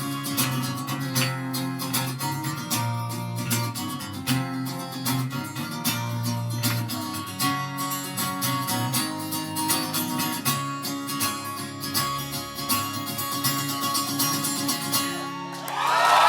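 Acoustic guitar playing a plucked, strummed tune, with applause breaking out loudly just before the end.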